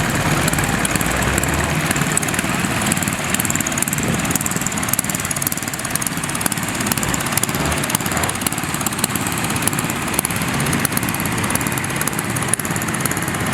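Steady, unbroken engine running noise with a fine crackle on top.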